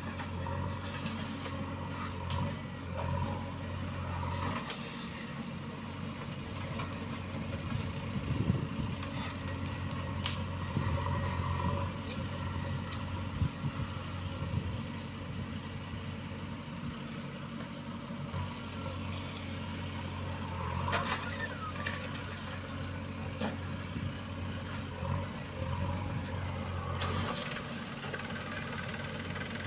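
Heavy diesel machinery engine running steadily at low revs, with a few brief knocks.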